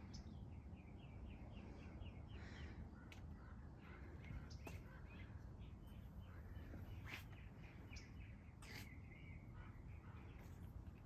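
Faint birds chirping and singing outdoors, including a quick run of short repeated notes near the start, over a low steady background rumble, with a few sharp clicks.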